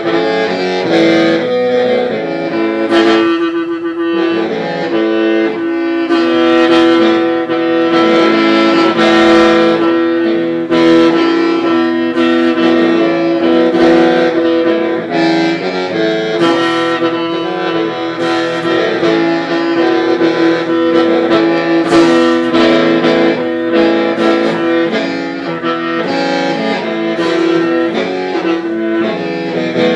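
Hmong qeej (lusheng), a bamboo free-reed mouth organ, playing without a break: one steady drone note held beneath a shifting melody of several notes sounding together.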